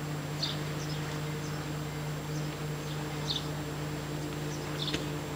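Short high bird chirps every second or so over a steady low hum.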